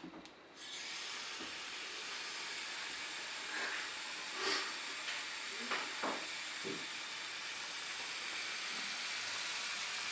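Steady hissing noise that sets in about half a second in, with a few faint short sounds over it.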